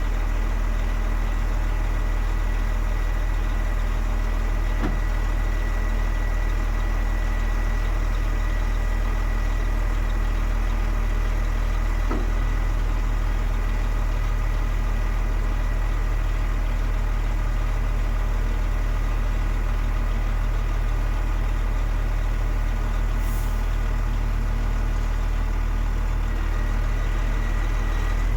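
DAF XF 105.460 truck's 12.9-litre six-cylinder diesel idling steadily, a deep even hum.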